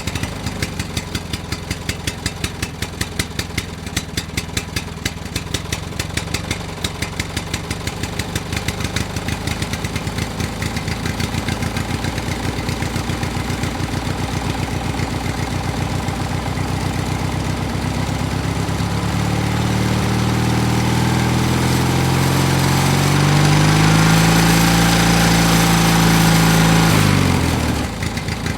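Engine of a homemade mini tractor chugging with an even beat. About two-thirds of the way in it revs up and runs louder and higher for several seconds, then drops back to a low chug near the end.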